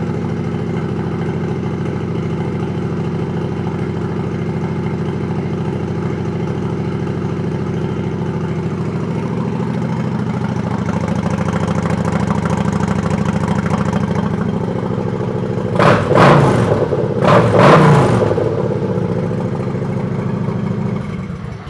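2011 Kawasaki Vulcan 900 Classic's V-twin engine idling steadily through its exhaust pipes. It is revved twice about sixteen and eighteen seconds in, then cuts off near the end.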